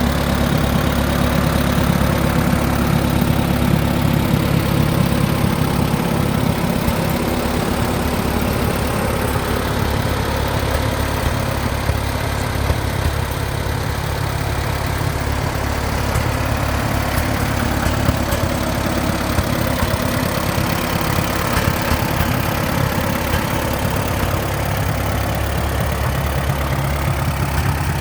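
Allis-Chalmers WD45 tractor engine running steadily at idle, with a deep, even rumble that eases slightly about halfway through and then returns.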